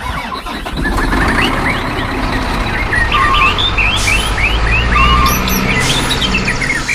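Many birds chirping over a steady low engine rumble, with two short runs of rapid beeps about three and five seconds in.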